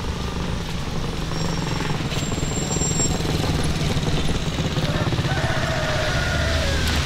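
A car driving on the highway: steady low engine and road rumble with a fast fluttering drone.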